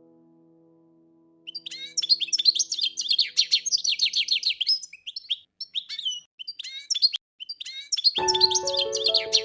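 Small songbird chirping in rapid runs of high trilled notes, with a brief pause before they resume. Piano music fades out at the start and comes back in near the end under the chirping.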